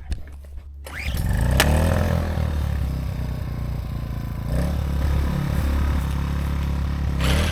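Small gas engine of a portable inverter generator running, its speed stepping up about a second in and again partway through. A louder, hissier noise sets in near the end.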